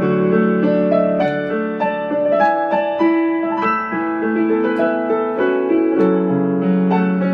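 Yamaha P-225 digital piano playing its built-in demo piece: chords held under a melody, with a new note or chord every fraction of a second.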